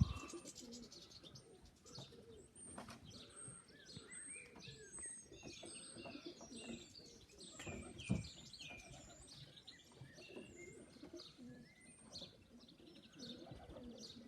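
Faint bird chirping and tweeting, with pigeons cooing softly underneath, and a single thump about eight seconds in.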